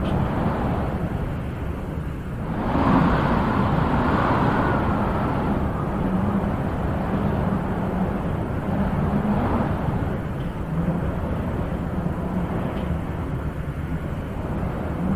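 Wind blowing in gusts, a steady rushing that swells and eases, rising into a stronger gust about three seconds in.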